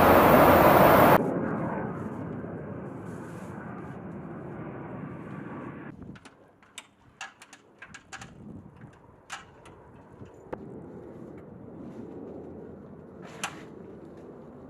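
Loud jet aircraft noise cuts off abruptly about a second in, leaving a fading rush. After that come scattered sharp clicks and knocks over low background noise.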